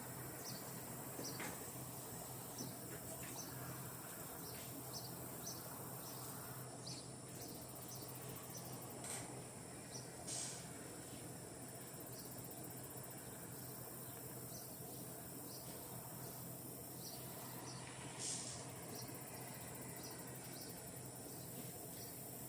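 Insects trilling steadily at a high pitch, with many short high chirps scattered through, a few of them louder about 9, 10 and 18 seconds in, over a faint steady low hum.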